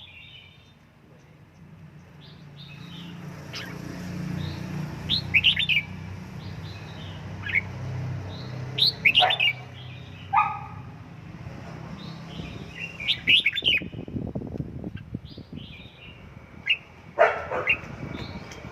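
Red-whiskered bulbul calling in short, sharp chirps at irregular intervals. A low hum runs underneath through the middle.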